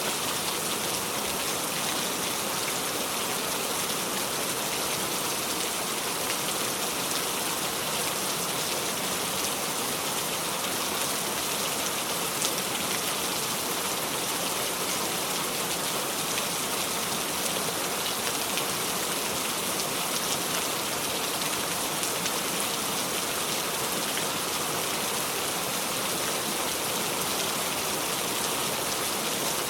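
Steady heavy rain falling on a surface, a constant even patter of drops without thunder.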